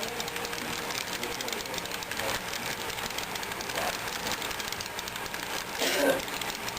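Model train running on the layout: a steady mechanical whir with fast, fine clicking from the wheels on the track, and a brief louder sound about six seconds in.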